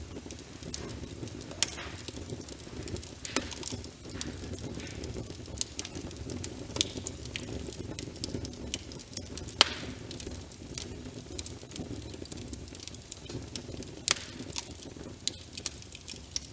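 Wood fire crackling in a fireplace, with frequent irregular sharp pops over a steady low rush; the loudest pop comes about ten seconds in.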